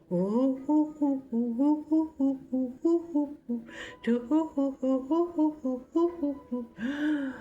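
A woman humming a wordless tune in short, stepping notes, breathing in twice between phrases.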